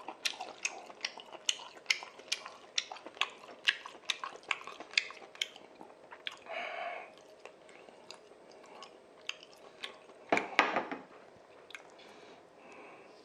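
Close-miked chewing of a mouthful of jjapaghetti noodles and beef, with rapid wet mouth clicks and smacks about two to three a second in the first half. A short noisy sound comes about halfway through, and a louder, longer one comes about three quarters of the way in.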